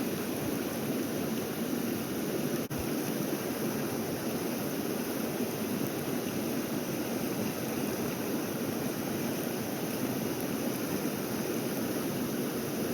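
Steady rush of a mountain creek's flowing water, with a brief break about three seconds in.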